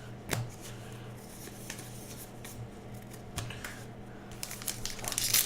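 Baseball trading cards being handled and flipped through: scattered soft clicks and rustles that get busier and louder near the end. A steady low electrical hum runs underneath.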